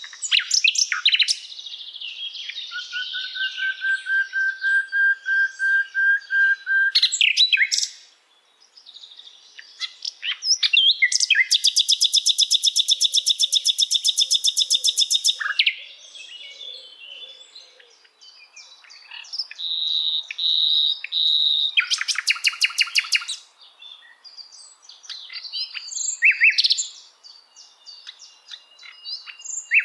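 Common nightingale singing varied phrases. One is a run of repeated pure whistles swelling louder; another is a long, very fast trill of dry evenly spaced notes lasting about four seconds. Short twittering notes and another rapid trill come later.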